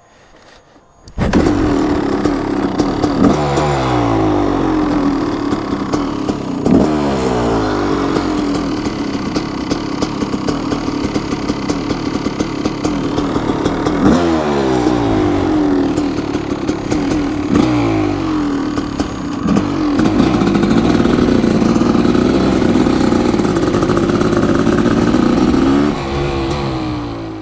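Kawasaki KX500's big-bore two-stroke single-cylinder engine being ridden hard. It revs up and drops in pitch at several gear changes, then falls away just before the end.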